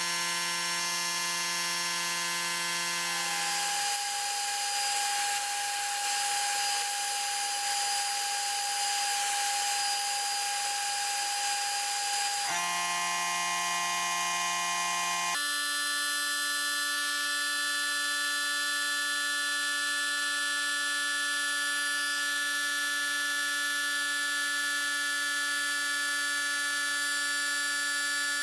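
A small electric power tool running steadily with a whine. Its pitch jumps to a new level several times, and there is a grinding hiss for several seconds early on, as if the tool is working against metal.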